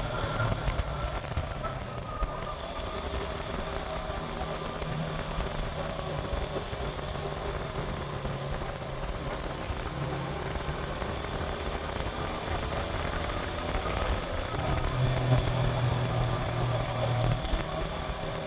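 Suzuki GN125's single-cylinder four-stroke engine running steadily under way, with wind rumbling on the microphone; the engine note swells a little about fifteen seconds in.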